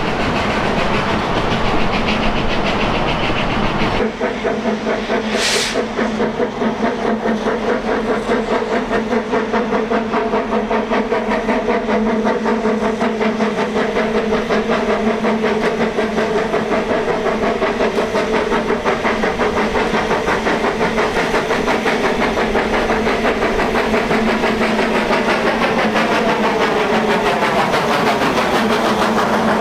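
Narrow-gauge steam train running, with a continuous rhythmic chuffing and rail noise. The sound changes abruptly about four seconds in, and a short burst of steam hiss follows soon after.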